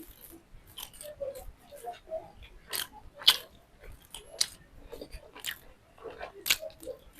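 Close-miked eating: chewing and biting with a string of short wet smacks and clicks from the mouth, the sharpest about three seconds in.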